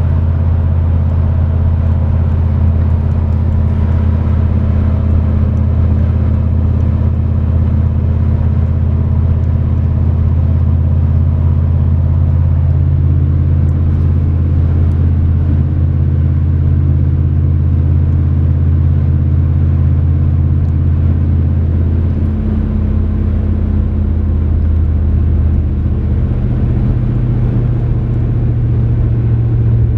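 A 1993 Chevrolet 1500 4x4 pickup's engine running steadily under way, a low drone with road noise. Its engine note changes about two-thirds of the way through and again a little later.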